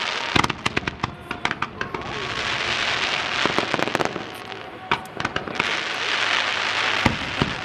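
Aerial fireworks display: rapid clusters of sharp bangs and crackles in the first two seconds and again around four to five seconds in, with a dense hiss between the clusters and one sharp bang about seven seconds in.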